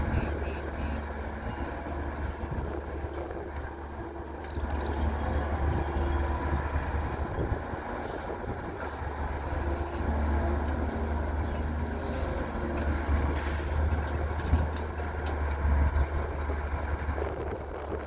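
Diesel engine of a Daewoo Solar 170W-3 wheeled excavator working under load as it loads mud into a dumper truck, its deep drone rising and falling as the machine digs and swings. A short hiss about two-thirds of the way through.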